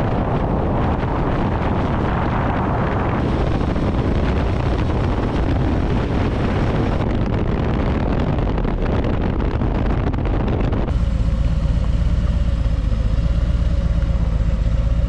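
Harley-Davidson motorcycle running at road speed, its engine mixed with wind rushing over the microphone. About eleven seconds in the sound changes to a steadier, deeper engine note with less wind.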